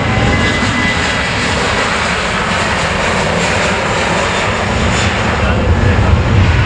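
Jet engines of a Boeing 737-800 airliner (CFM56-7B turbofans): a loud, steady rushing noise.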